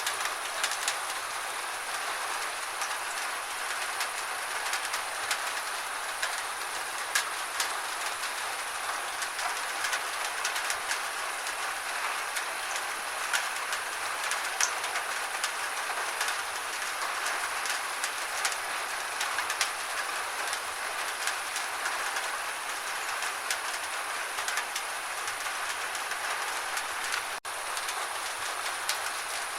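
Steady gentle rain: an even hiss with many small drop ticks, broken by one very brief dropout near the end.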